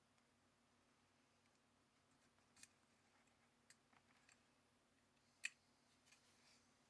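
Near silence: room tone with a few faint, sharp clicks spread through it, the loudest about five and a half seconds in.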